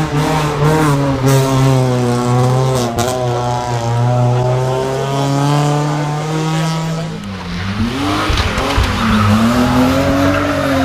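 Rally car engine heard onboard, held at high revs under load. The revs dip sharply about seven seconds in, then climb back, with tyre noise hissing over the last few seconds.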